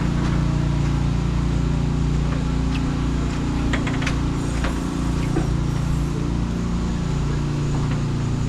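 Motor vehicle engine running at a steady pace on the road, with a constant hiss of road noise and a few scattered small clicks.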